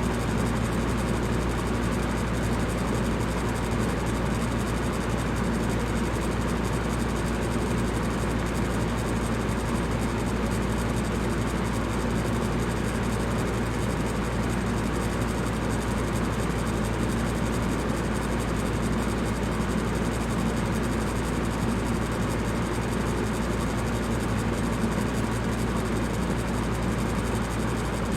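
Electric fan running steadily: an even rush of air with a low, constant hum beneath it.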